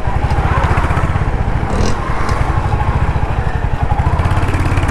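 Royal Enfield Hunter 350's 350 cc single-cylinder engine running steadily on the move, its exhaust giving an even, rapid thump.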